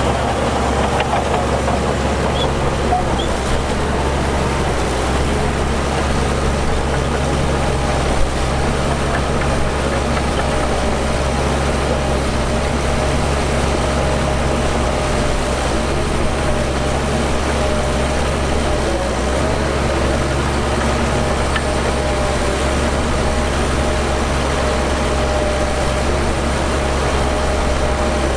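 Heavy diesel earthmoving machinery running steadily, a constant low engine drone with a faint steady whine above it.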